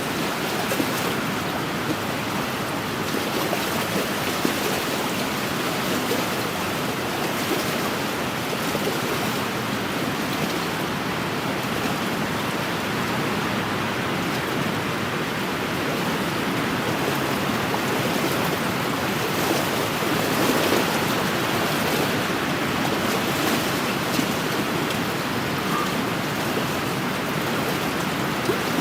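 Small wind-driven waves lapping and washing steadily along a lakeshore.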